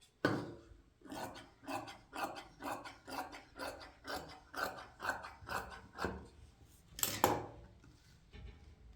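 Repeated rasping, scraping strokes at an even pace of about three a second, then two louder strokes near the end.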